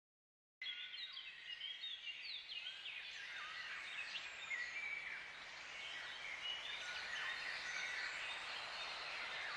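Birds chirping and singing: many short, quick sliding chirps over a steady background hiss, starting about half a second in.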